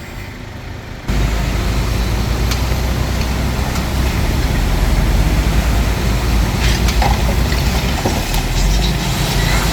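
Bulldozer's diesel engine working under load, steady and loud; it comes up sharply about a second in, with a few scattered knocks and clanks over the drone.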